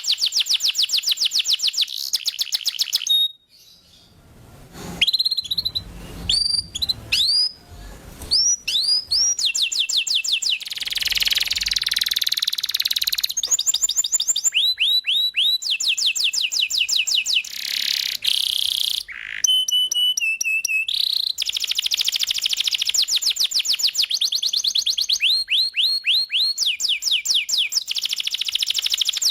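Domestic canary singing a long song of fast, rolling trills of repeated rising notes, broken by short whistled notes and a brief pause a few seconds in.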